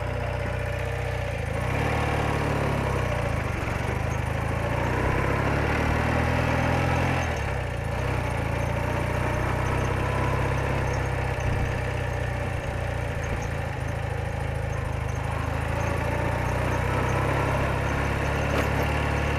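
BMW R80RT's air-cooled flat-twin boxer engine running steadily, its note changing about two seconds in and again around seven and a half seconds in.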